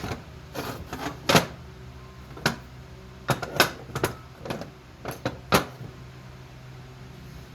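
Irregular sharp metal clicks and knocks, a dozen or so over about six seconds, then stopping, over a faint steady hum: hand tools working on the metal parts of a vice.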